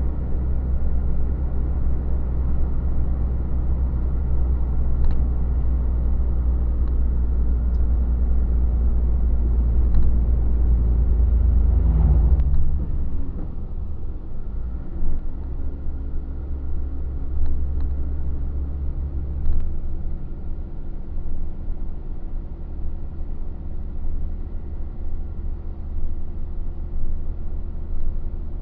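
Truck engine running on the road, a steady deep drone with engine hum over road noise; about twelve seconds in the deep drone drops suddenly and the engine note changes, then it carries on lower.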